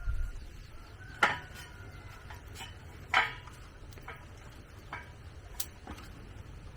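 A few sharp knocks at irregular intervals, two much louder ones about two seconds apart, each with a brief ringing tail, over a low steady rumble.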